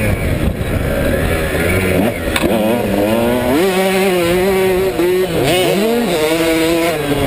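KTM 150SX's single-cylinder two-stroke engine being ridden hard, its revs rising and falling with the throttle. The pitch climbs, holds steady for about a second in the middle, drops sharply near five seconds in, then climbs again.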